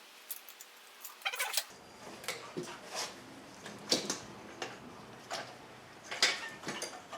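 Hand tools working on metal: scattered, irregularly spaced clicks and clinks, as of a wrench on a bolt.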